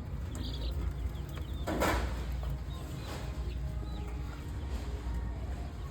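Small birds chirping faintly in short downward-sliding peeps over a steady low rumble, with one brief rushing burst of noise about two seconds in.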